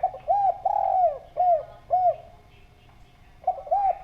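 Spotted dove (derkuku) cooing: one full phrase of about five arched coo notes, the third one long and drawn out, then the next phrase begins near the end.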